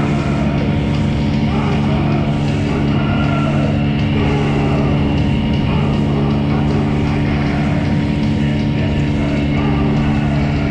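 Gladiator 9.9 hp outboard motor running at a steady, unchanging speed.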